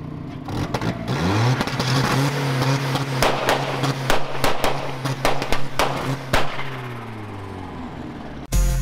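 Turbocharged Mazda MX-5 four-cylinder engine revving up about a second in and held at high revs through a burnout, with a string of sharp cracks from about three seconds in. It dies away near the end.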